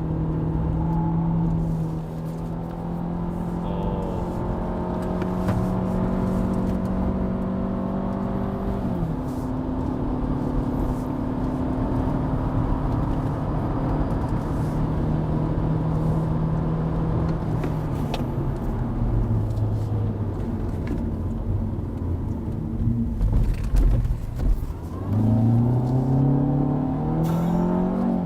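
Hyundai Avante (CN7) engine and CVT heard from inside the cabin under hard driving. The engine note holds at a steady pitch, drops about nine seconds in, sinks lower later, then climbs again near the end, over a steady road rumble.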